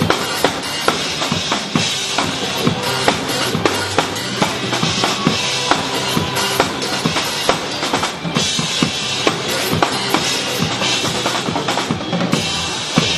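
Drum kit played hard over a music backing track: a steady stream of kick, snare and rimshot hits, with cymbals swelling louder about eight seconds in and again near the end.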